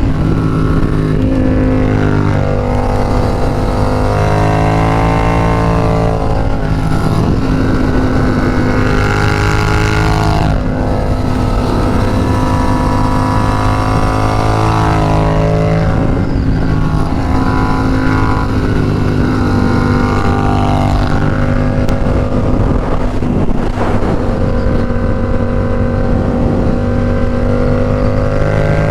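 Yamaha FZ-07's parallel-twin engine under way on a ride. Its pitch climbs and drops several times as it accelerates and changes gear.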